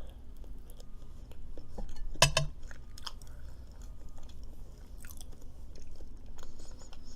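A person chewing food close to the microphone, with small wet mouth clicks throughout and one louder sound about two seconds in.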